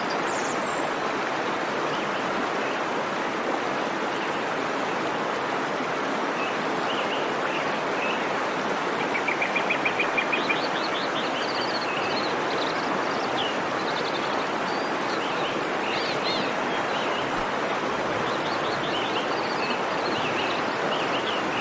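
Steady rush of a waterfall, with birds chirping over it from about seven seconds in, including a quick trill around nine seconds.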